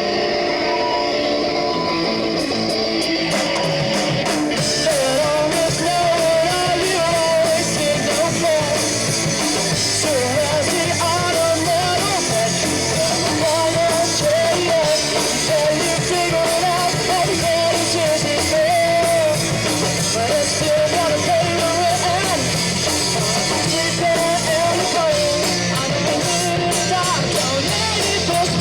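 Live rock band playing loud through a PA: a held electric guitar chord at first, then drums and the full band come in about four seconds in, with a voice singing a wavering melody over it.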